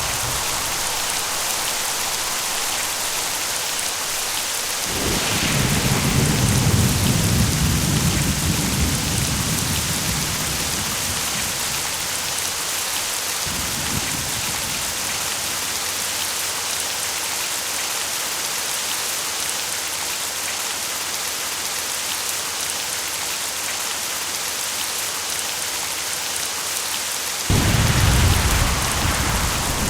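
Steady heavy rain with rolling thunder. A long rumble builds about five seconds in and fades away over several seconds, a brief low rumble follows shortly after, and a sudden loud thunderclap breaks near the end.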